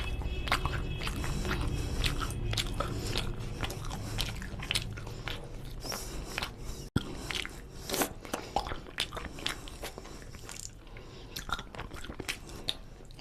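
Close-miked eating sounds: a man chewing rice and chicken curry, with many short wet mouth clicks and smacks. Fingers squish rice into the curry on a steel plate.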